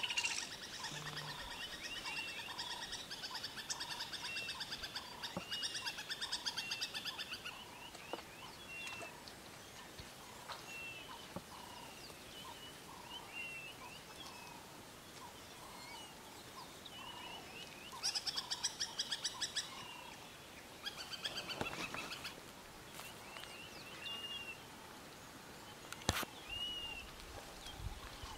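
Wild birds calling in the bush: short whistled notes repeated over and over, with a rapid pulsing trill in roughly the first seven seconds and again about eighteen seconds in.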